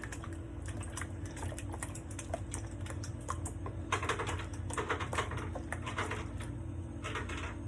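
A whisk beating eggs and water in a bowl: a fast, uneven run of light clicks as the tines strike the bowl.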